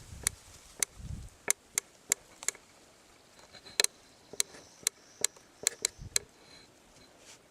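A series of about fifteen sharp, irregular taps, with a few short low thumps among them.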